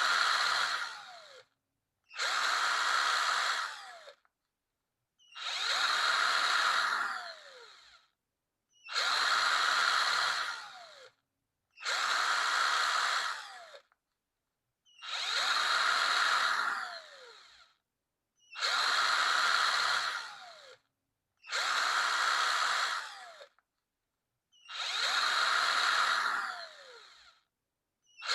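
Electric power drill triggered in short runs, about nine in all, each about two seconds long with silence between. Each run ends with a falling whine as the motor spins down after release.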